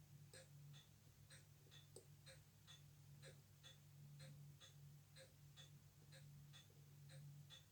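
Faint, even ticking of a Glashütte Spezimatic automatic watch movement, the clicks alternating between two slightly different sounds, tick and tock. A faint steady low hum lies underneath.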